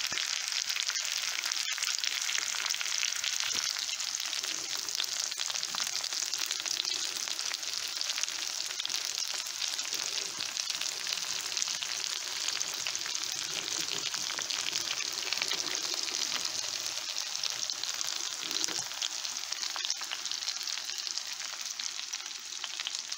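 Cauliflower steak frying in olive oil and butter with onions and garlic in a pan: a steady crackling sizzle.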